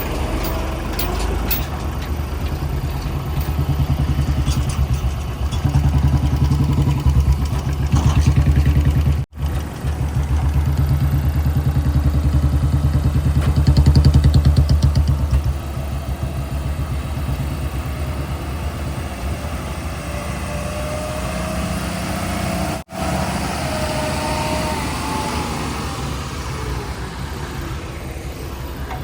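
Heavy diesel engine of earth-moving machinery running under changing load, louder for several seconds in the middle. The sound drops out abruptly for an instant twice.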